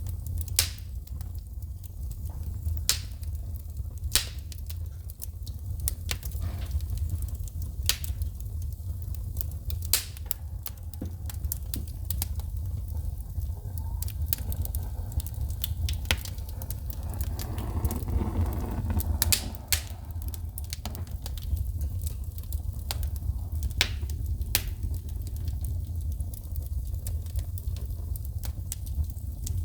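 Wood fire burning in a fireplace: irregular sharp crackles and pops of sparks shooting from the logs over a low steady rumble. A soft hiss swells and fades about halfway through.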